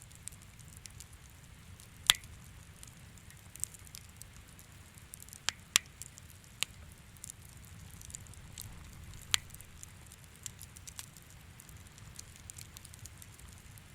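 Wood bonfire crackling: irregular sharp snaps and pops over a low steady rumble, with the loudest pops at about two, six and nine seconds in.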